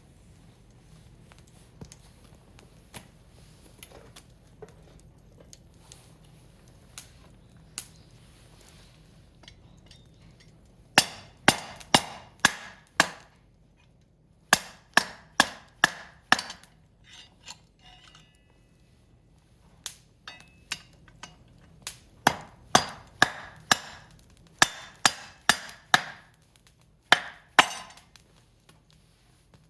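Firewood being chopped: runs of sharp wooden strikes, about two to three a second, in several bursts from about a third of the way in. Before them, faint scattered crackles from the wood fire.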